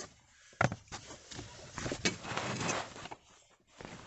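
Hard plastic heater parts being handled and pulled apart inside a car dashboard: a sharp click about half a second in, then a second or so of scraping and rattling.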